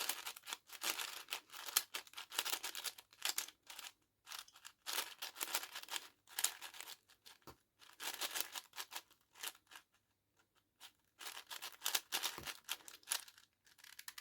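Plastic Diansheng 5x5 speedcube being turned fast, its layers clacking in quick runs of clicks broken by short pauses, with a near-silent stop a little past the middle.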